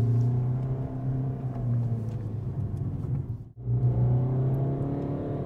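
DS 4 Cross's 1.5-litre four-cylinder diesel engine running hard as the car accelerates in sport mode, heard from inside the cabin, with a momentary break about three and a half seconds in.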